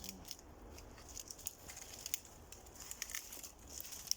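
Dead, dry birch twigs being broken off by hand: a faint, irregular run of small crackling snaps.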